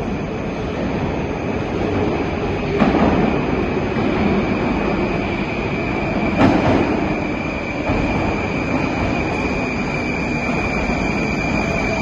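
Moscow metro train running: a steady rumble with a thin, steady high-pitched squeal, and two sharp knocks, about three seconds in and again a few seconds later.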